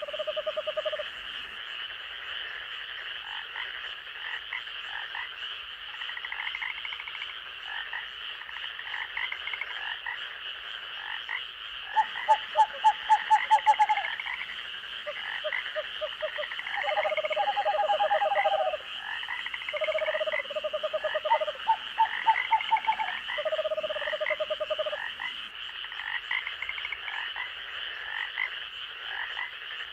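Night forest chorus of frogs: several frogs call in short trains of rapid pulses that come and go, over a continuous high-pitched trill and repeated short rising notes.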